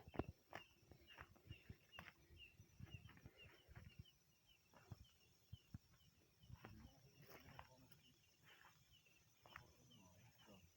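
Faint small bird calling, a short high chirp repeated about three times a second, over scattered light rustles and clicks.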